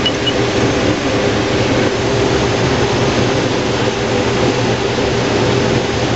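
Case IH Axial-Flow combine running steadily under load while harvesting corn, a constant engine hum with a dense rush of threshing and crop-handling noise.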